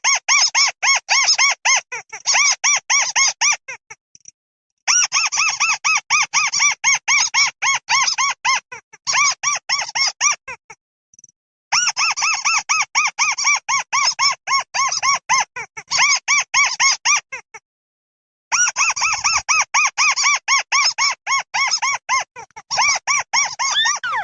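Birds known in Vietnamese as mắt xéo giving their flock call: a rapid run of short, squeaky chirps, several a second, in bursts of several seconds broken by pauses of about a second.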